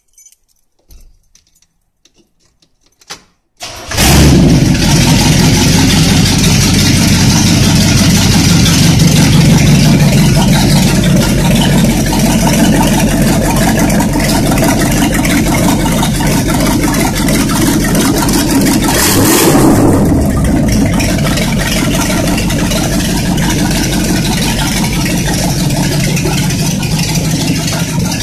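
Chevrolet L82 350 small-block V8 cranking and catching about four seconds in, then running loud and steady without its final exhaust system fitted, with one brief rev about two-thirds of the way through.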